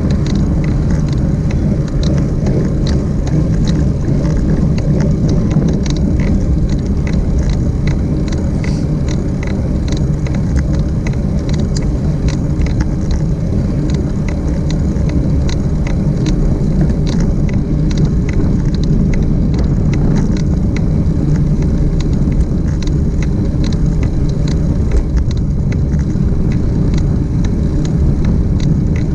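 Steady low wind rumble on the microphone from riding, with many small sharp ticks and rattles throughout.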